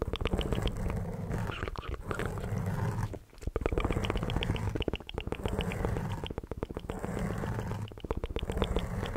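Close-miked ASMR mouth sounds: rapid wet clicks and smacks, about ten a second, over a low hum-like sound that comes in stretches of one to three seconds with brief breaks.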